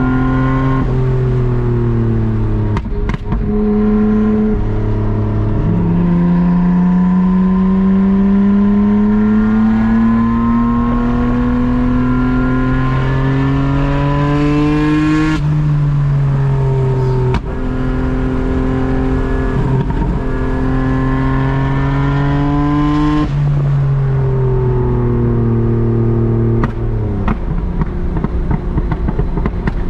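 Nissan Skyline R32 GT-R's twin-turbo RB26DETT straight-six running through a Group A style exhaust while driving. The engine note rises and falls with gear changes, including a long steady climb in revs over about ten seconds and a sharp drop in pitch at a shift about halfway through.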